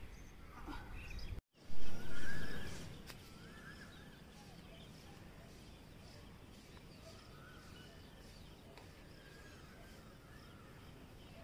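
Outdoor background noise with faint birds calling now and then, after a short dropout and a loud muffled bump about two seconds in.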